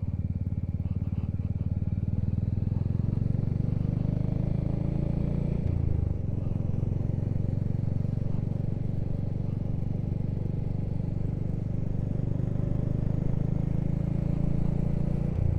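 Motorcycle engine running steadily while riding along, with a brief break in its note about six seconds in and again near the end.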